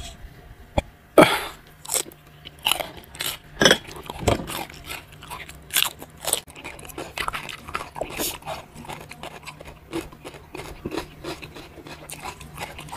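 Raw cucumber slices bitten and chewed close to the microphone: a series of irregular crisp crunches, the loudest about a second in.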